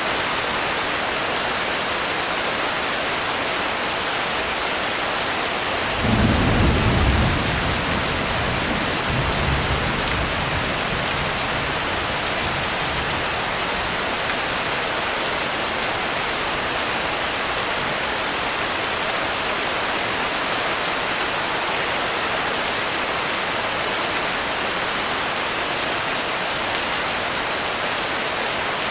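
Steady heavy rain, with a sudden low rumble of thunder about six seconds in and a weaker rumble a few seconds later.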